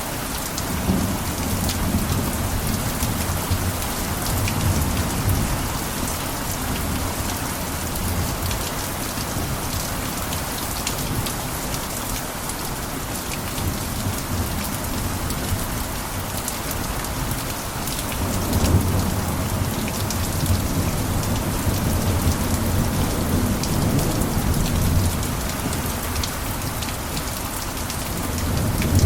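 Steady heavy rain falling on a roof, with single drops ticking through the hiss. Twice a low rumble swells up under the rain and dies away, once about a second in and again about eighteen seconds in.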